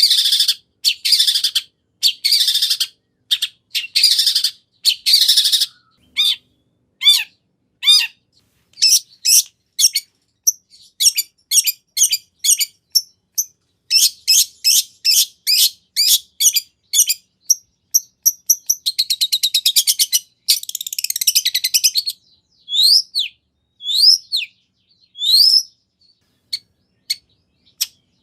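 Long-tailed shrike (cendet) singing a varied song packed with mimicked phrases. It opens with harsh chattering bursts, then moves through sharp whistled notes, a fast trill and scratchy chatter, and ends on single rising and falling whistles.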